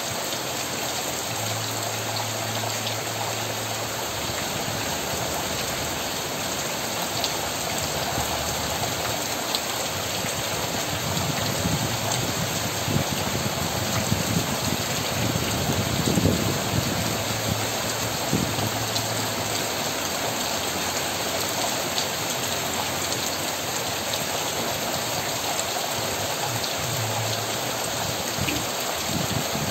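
Heavy rain pouring steadily onto trees, a fence and rooftops: a dense, even hiss with scattered drop splashes.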